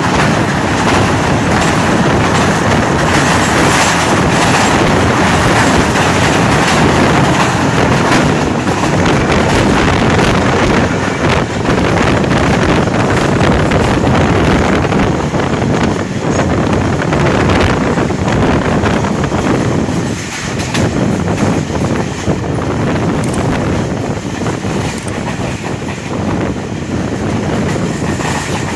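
The 45up Pakistan Express passenger train running at speed, its wheels rumbling and clattering steadily over the track.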